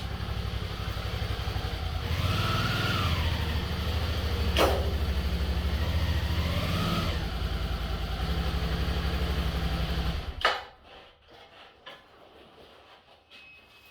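Motorcycle engine running, revved up and back down twice. It shuts off about ten and a half seconds in with a knock, and only faint small noises follow.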